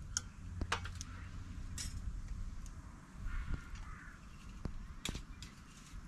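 A harsh bird call about three seconds in, with several sharp clicks before and after it over a low steady rumble of the outdoors.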